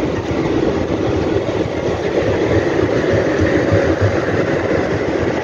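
Steady rush and rumble of trains running, heard at a coach's open window, as a diesel locomotive and its long train of open freight wagons pass on the next track.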